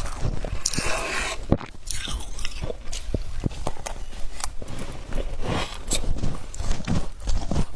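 Close-miked biting and chewing of thick humidifier frost: a dense run of sharp, irregular crunches as the icy frost breaks in the mouth.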